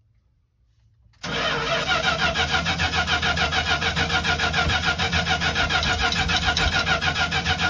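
The 1975 Winnebago Brave's engine is cranked on its starter after about a second of quiet, with an even rhythm of roughly four or five pulses a second, and it doesn't fire. It is a cold start on a flooded engine, with the manual choke being worked.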